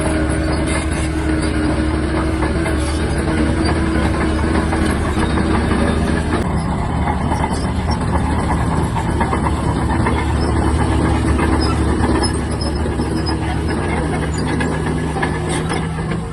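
Shantui DH17-C3 crawler bulldozer's diesel engine running steadily, with the clatter and squeak of its steel tracks as it works.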